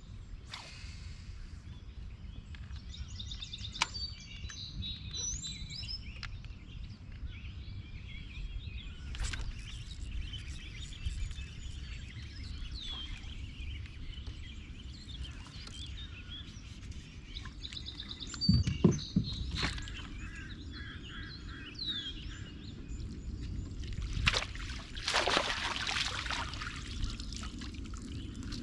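Several wild birds chirping and calling over a steady low rumble. There are a few scattered clicks and knocks, and a brief rushing hiss near the end.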